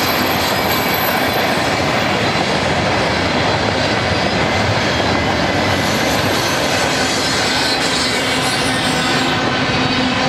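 Freight cars, tank cars then double-stack container well cars, rolling past on the rails in a steady, loud rumble and rattle of wheels. A thin, high wheel squeal fades out in the first second or two.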